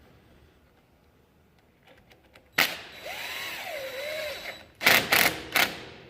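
A power drill runs for about two seconds, its pitch dipping and rising as the trigger is worked, then gives three short loud bursts.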